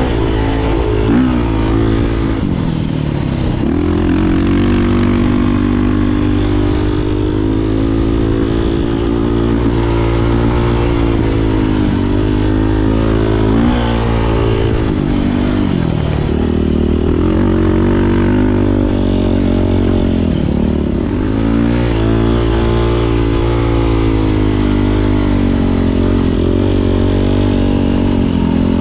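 Beta 500 RRS single-cylinder four-stroke dirt bike engine being ridden hard. The revs rise and fall continually, with several sharp drops and climbs as the rider shifts and rolls off the throttle.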